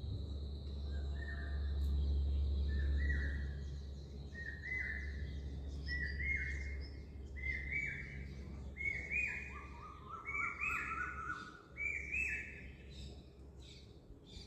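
A bird calling a series of short rising notes, about one a second, with a lower series of the same calls joining in near the end. A faint steady high hum lies underneath early on.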